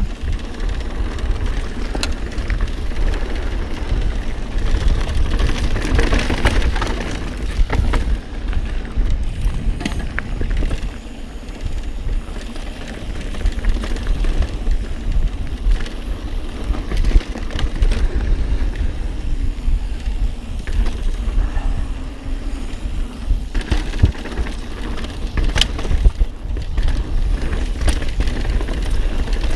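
Mountain bike riding over a dirt trail: steady tyre and rattle noise with wind rumbling on the action camera's microphone, and several sharp knocks and clatters from rocks and bumps.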